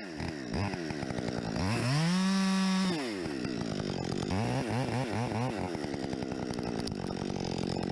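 Chainsaw engine revved up, held at full throttle for about a second and let back down, then blipped quickly about five times before running on steadily.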